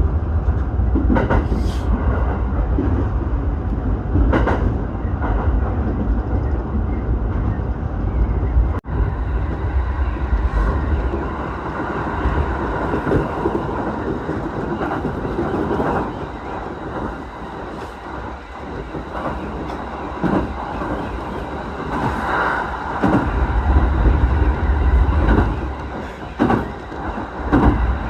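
Electric commuter train running between stations, heard from inside the passenger car: a steady low rumble with wheels clicking over the rail joints, easing off for a few seconds past the midpoint and growing louder again later.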